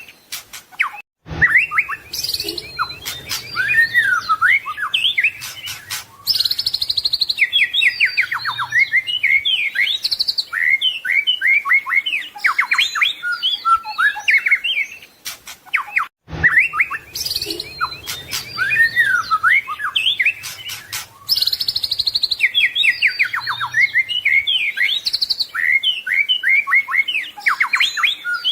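White-rumped shama (murai batu) singing a long, varied song of whistled notes, rapid trills and chattering phrases. The song breaks off briefly about a second in and again midway, and the same passage repeats after each break.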